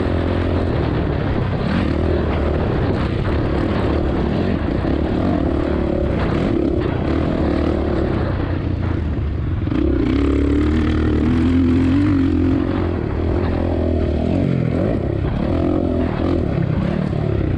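Suzuki RM-Z450 motocross bike's four-stroke single-cylinder engine revving up and down as it is ridden hard around the track, the pitch climbing and dropping with throttle and gear changes.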